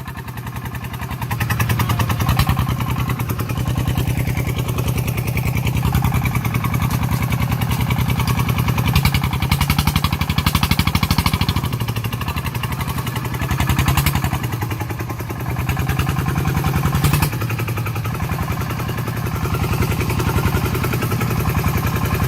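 Diesel engine of a small farm vehicle running under load with a fast, even knocking beat, its loudness rising and falling as it works.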